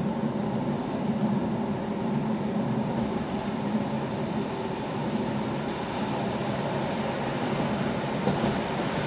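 Rhaetian Railway train on the metre-gauge Bernina line, heard from inside the carriage: a steady rumble of wheels running on the rails at speed.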